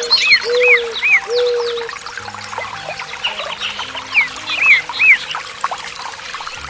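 Songbirds calling over steadily trickling water, with a run of short, falling chirps repeated several times. Lower whistled notes sound in the first two seconds.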